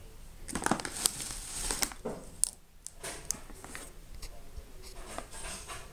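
Packaging crinkling and rustling as it is handled, with irregular sharp clicks and taps. It is loudest in the first couple of seconds.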